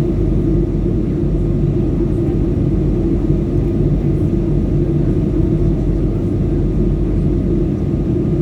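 Steady drone of an airliner in flight heard from inside the passenger cabin: engine and airflow noise at an even level, with a low hum that holds one pitch.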